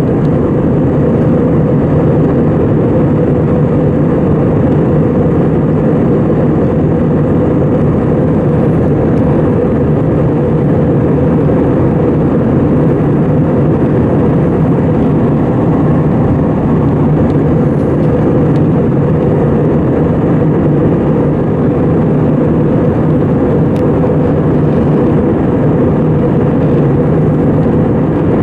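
Cabin noise of an Airbus A320: the jet engines and airflow making a loud, steady drone that does not change.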